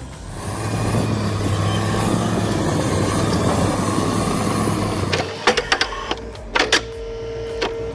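Heavy machine's engine running steadily under load. After about five seconds it gives way to a run of sharp clicks and knocks, then a steady higher-pitched hum.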